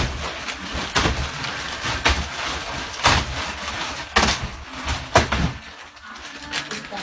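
Knocks and rustling of a newly unpacked mattress and its wrapping being handled, with sharp knocks about once a second.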